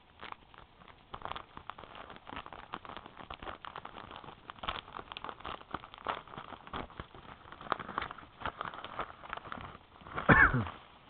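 A shipping mailer being opened by its pull tab, with irregular crackling and rustling of the packaging. About ten seconds in comes one loud, short sound falling in pitch.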